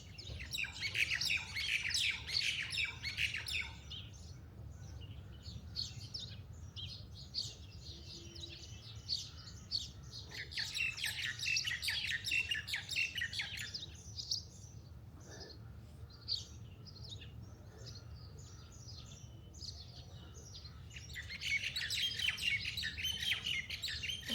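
Birds chirping and twittering, dense and rapid, in three loud bouts with sparser chirps between them, over a steady low rumble.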